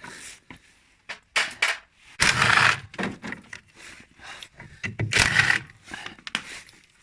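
An electric power driver unscrewing the counterweight bolts on a front-loading washing machine, in two loud half-second bursts, with sharp knocks of metal parts in between.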